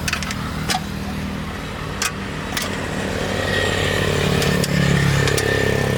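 An engine running steadily after starting suddenly, its pitch and loudness rising slightly partway through, with a few sharp clicks over it.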